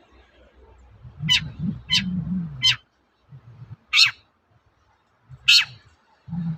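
Long-tailed shrike (cendet) giving five short, harsh calls about a second apart, over a low wavering sound.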